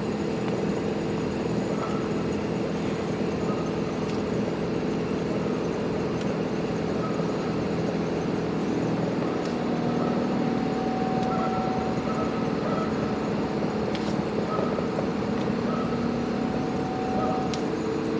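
Variable-speed inverter outdoor HVAC unit running, a steady hum of several tones from its compressor and fan, with a higher tone joining about halfway and the pitch starting to rise near the end as the unit speeds up. A few faint clicks.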